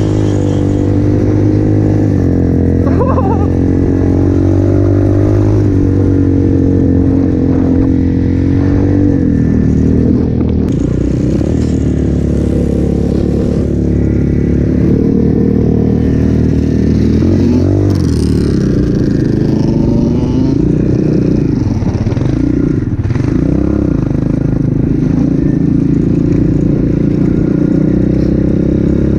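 200cc Avantis pit bike engine running under riding load, its pitch rising and falling again and again as the throttle is opened and closed, with several deeper dips and climbs along the way.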